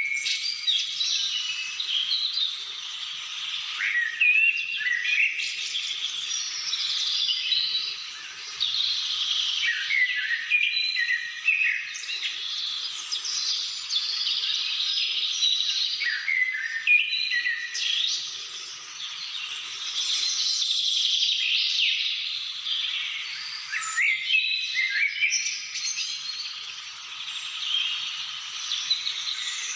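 Many birds singing and calling at once: a dense, continuous chorus of overlapping chirps and short whistles.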